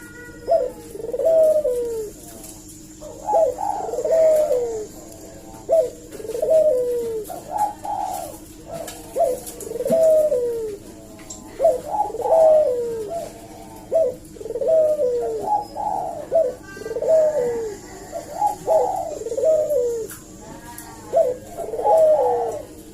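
Puter dove (Barbary dove) cooing over and over, each phrase a short note followed by a longer coo that falls in pitch, repeating about every two seconds. A faint steady hum lies under the calls.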